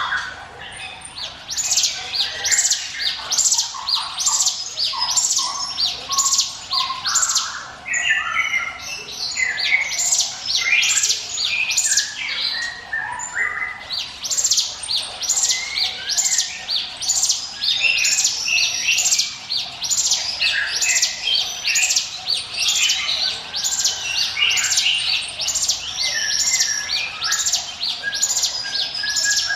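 Ciblek gunung (mountain prinia) singing its 'ngiwit wit' song: a steady, unbroken run of short, high, chirping notes repeated about one to two times a second.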